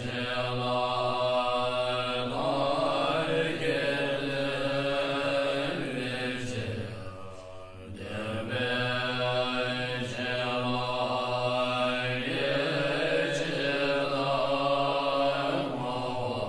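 Chanted mantra over a steady low drone, sung in two long held phrases that each fade out briefly, about seven to eight seconds in and again at the end.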